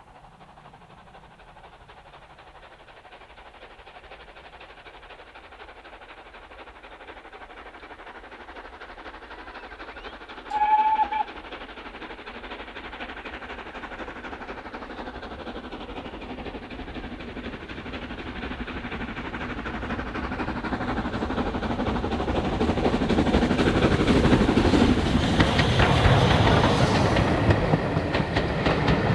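A train approaching along the line, its running sound building steadily from faint to loud over the whole stretch. About ten seconds in, it sounds one short blast on its whistle.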